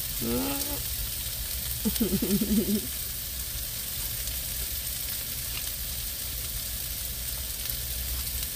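Meat sizzling steadily in a pan. Two short hummed "mm" sounds from the person eating come near the start and about two seconds in.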